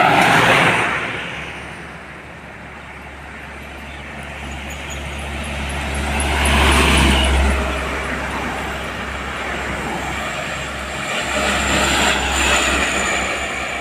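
Road traffic: vehicles passing close by one after another. Engine rumble and tyre noise swell and fade three times, near the start, in the middle and near the end.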